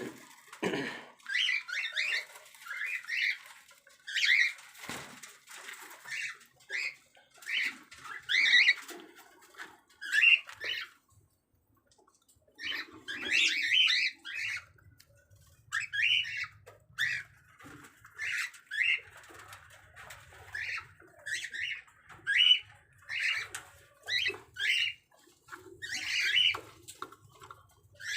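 Cockatiels calling, a string of short chirps and squawks about one or two a second, with a brief pause partway through.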